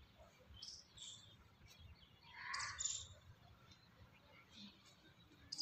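Small birds chirping faintly in short high calls, with a louder call about two and a half seconds in.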